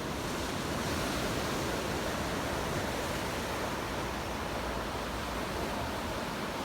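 Ocean surf washing onto the beach: a steady rushing hiss of waves.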